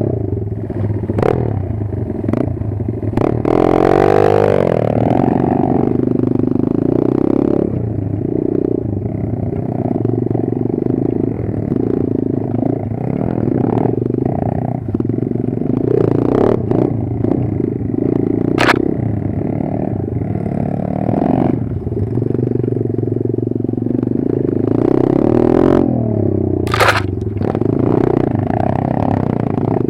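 Kayo 140 pit bike's single-cylinder engine running at low revs, picking up twice (about four seconds in and near the end), with clattering, scraping and a few sharp knocks from the bike working over rough ground.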